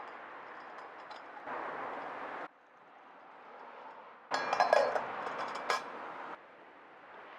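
Metal camp cookware clinking, with a cluster of sharp clinks about four seconds in. Around it are short cut-together stretches of steady hiss.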